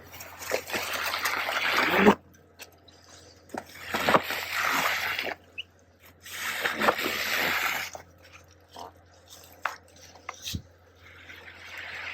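Garden hoe scraping snow off a growing tunnel's cover in three long strokes of a couple of seconds each, with the loosened snow sliding off. Faint scattered taps and ticks follow the strokes.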